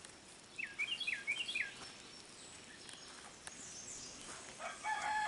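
A bird gives a quick run of about five short, high chirping notes about a second in. Near the end a rooster starts to crow, one long drawn-out call.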